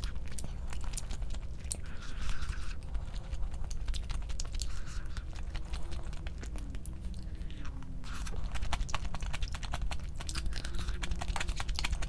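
Close-up eating: chewing and crunching with many small clicks and smacks, coming in bursts every few seconds.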